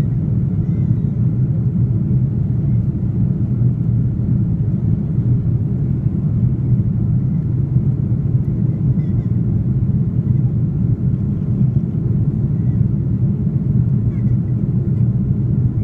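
Steady low rumble of engine and airflow noise inside the cabin of an Airbus A330-300 airliner in flight.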